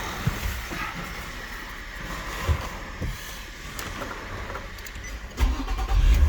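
Nissan Teana's VQ25 V6 engine starting about five seconds in, after a few faint knocks, and running on with a steady low rumble; it catches easily.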